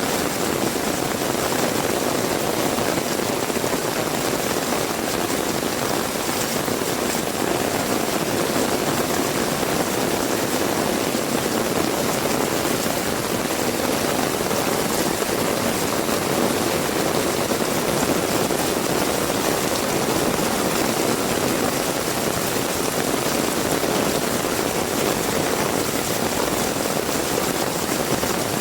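Heavy rain falling in a steady, dense downpour, with no breaks or changes.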